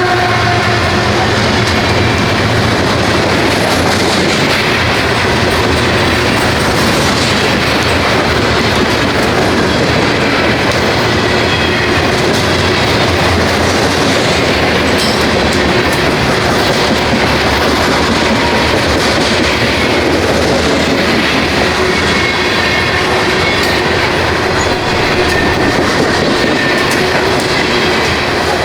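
Railroad cars rolling steadily past close by: a continuous rumble of wheels on rail with clickety-clack over the joints and faint high squealing tones.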